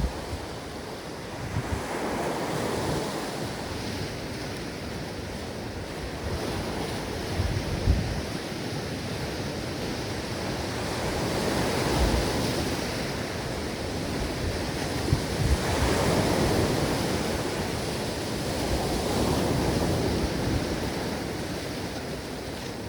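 Ocean waves breaking and washing ashore, the surf swelling and fading about every four seconds, with short low thumps of wind buffeting the microphone.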